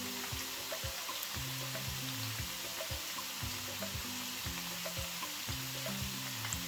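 Thin green plantain slices sizzling steadily in hot frying oil, with scattered small pops, under background music with a steady beat.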